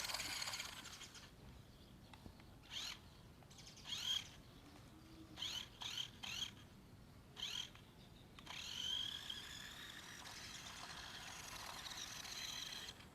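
Toy remote-control car's small electric motor whining. It fades out, then spins up in about six short rising blips, then runs on in a longer whine from about two-thirds of the way in.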